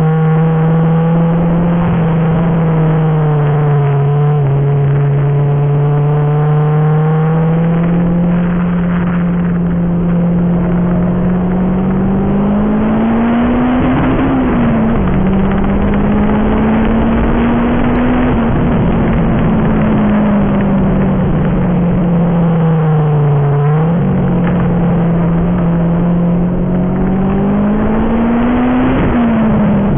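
Turbocharged Toyota Vitz RS engine heard from inside the cabin while being driven hard around a circuit. Its note climbs and falls with throttle and gear changes, with sharp breaks about halfway through, again after about three-quarters, and near the end.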